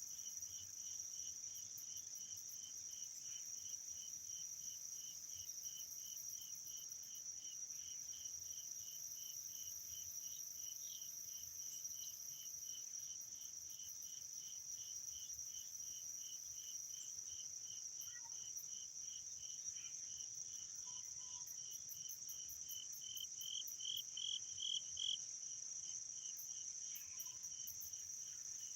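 Crickets and other insects calling together: a steady high-pitched trill under a regular chirp about three times a second, which swells louder for a moment near the end.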